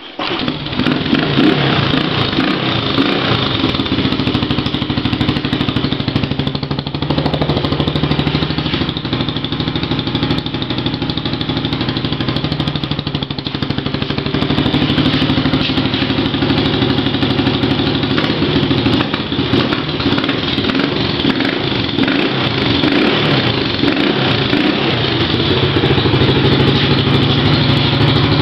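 2008 Baja 125 dirt bike engine running steadily, with a few mild rises and dips in speed, after five months of sitting unused.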